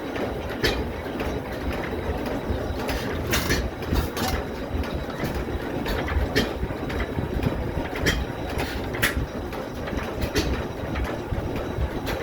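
1902 La Fourmi engine running with a steady low rumble and sharp, irregular clicks and knocks above it.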